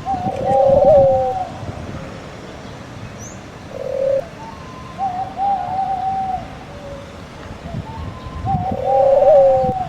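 A bird calling in repeated wavering phrases: longer calls near the start, in the middle and near the end, with a short note in between.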